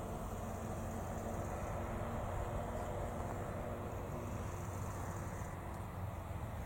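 A vehicle engine running steadily with a low hum that holds level throughout.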